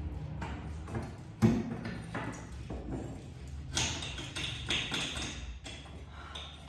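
Painted wooden trim being pried off a plaster wall: a run of taps and knocks, a loud thud about a second and a half in, and a scraping stretch about four to five seconds in.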